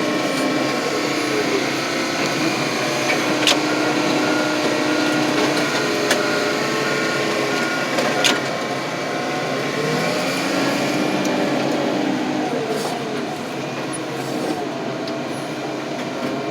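Heavy scrap-yard machinery running under load, with a steady drone and whine, and sharp metal cracks and clanks three times, the loudest about 3.5 and 8 seconds in.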